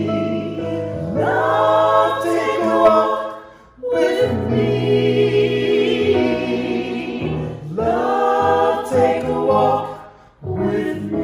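A choir singing church music in long phrases over sustained low notes, with short breaks between phrases about four and ten seconds in.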